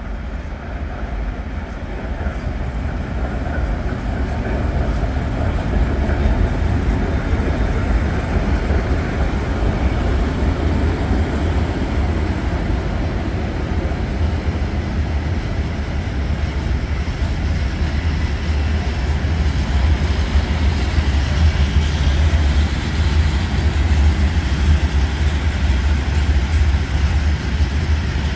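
Diesel-hauled freight train passing close by: a steady deep rumble of engine and wheels that grows louder over the first few seconds, then the continuous rolling of open freight wagons over the rails.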